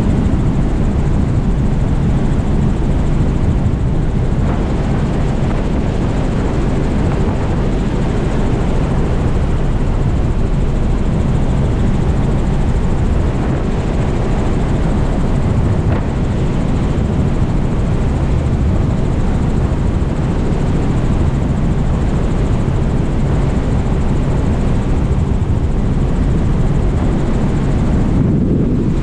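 Steady drone of a small tour helicopter in flight: engine and rotor noise, unbroken and even in level.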